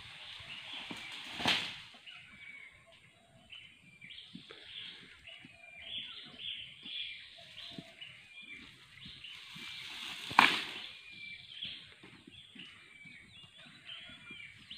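Birds chirping over and over in short calls, with two loud sudden sounds cutting through, about a second and a half in and again around ten seconds in.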